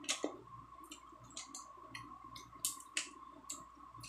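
Close-up mouth sounds of eating soft ripe mango slices: a scattered series of short wet lip smacks and chewing clicks, over a faint steady hum.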